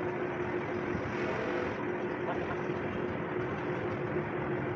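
A machine running steadily, with a constant hum under an even noise and no starts, stops or knocks.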